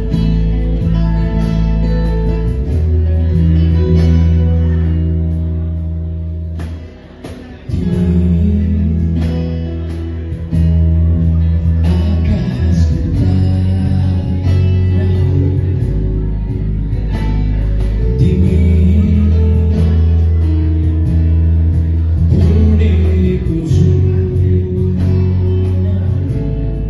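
Live acoustic band performance: acoustic guitar playing over sustained bass notes, with singing.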